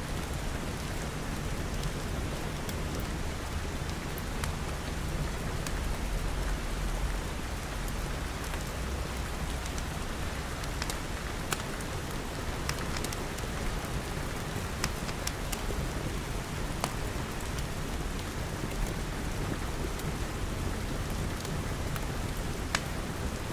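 Steady rain pattering, with a low rumble that swells about six seconds in and scattered sharp ticks throughout.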